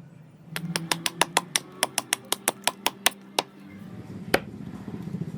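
A rapid run of sharp, evenly spaced taps, about six a second for about three seconds, then one more single knock. It sounds like a hard tool striking wood or metal, over a faint steady hum.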